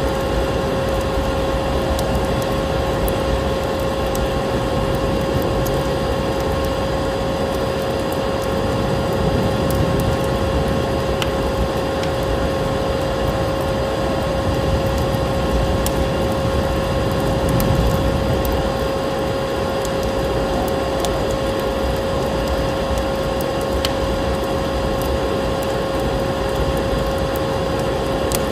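Layered ambience: a vacuum cleaner motor humming at one steady pitch over a crackling fire with scattered sharp pops, and the low, swelling rumble of storm wind.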